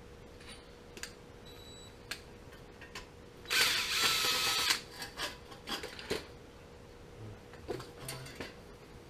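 A power drill runs in one burst of about a second, a few seconds in, with a wavering whine. Scattered clicks and knocks of tools and small parts being handled come before and after it.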